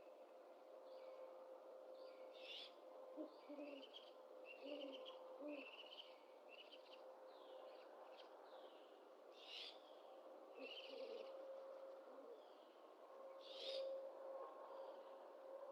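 Faint great horned owl hoots, a few short low notes, with chirping and trilling bird calls throughout and a few sharper, harsher calls.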